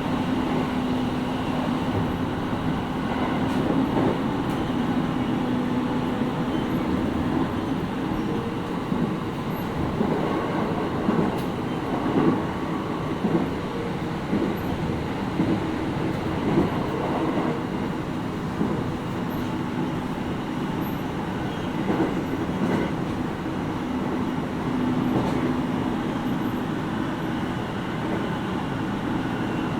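Interior running sound of a JR East 701 series 5500 electric multiple unit under way, heard from inside the motor car: a steady rumble of wheels on rail with a constant motor hum and occasional short knocks over rail joints.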